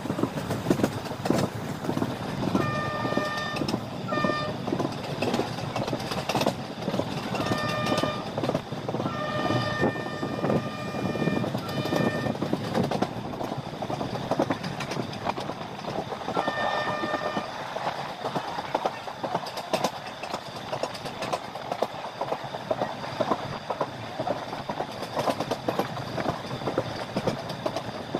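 Indian Railways passenger train running at speed, heard from an open coach window: steady wheel rumble and rail clatter throughout. The locomotive horn sounds several times: two short blasts about three seconds in, a long blast of about four seconds around ten seconds in, and a short one at about seventeen seconds.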